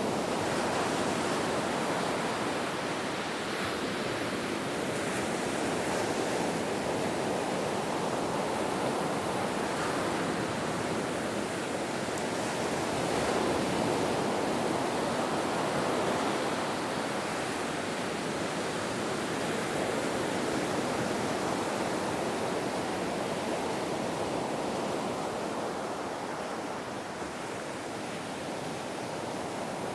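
Ocean surf: a continuous wash of breaking waves that swells gently in loudness about halfway through and eases slightly near the end.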